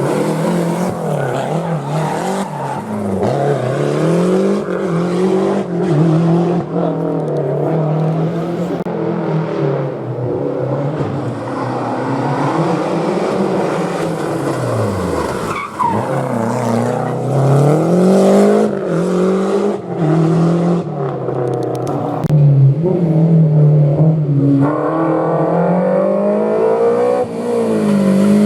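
Historic rally car engines revving hard on a mountain stage, the pitch climbing and falling again and again with gear changes and lifts. About halfway through, the engine note drops right down, as for braking into the hairpin, then climbs again under acceleration.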